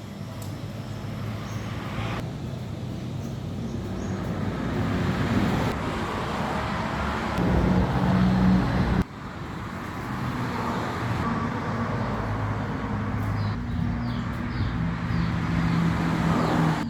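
Car engine running, its pitch and loudness rising and falling, with a sudden break about nine seconds in.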